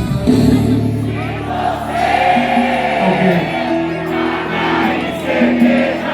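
Live band music with a crowd of many voices singing along.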